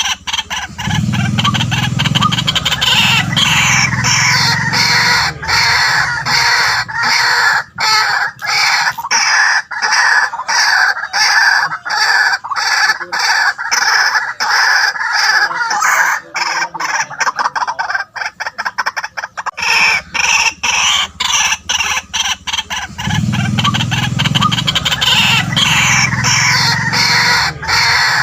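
White-breasted waterhen calling: a loud, unbroken run of rapid, repeated harsh notes. Deeper notes join in twice, about a second in and again about 23 seconds in.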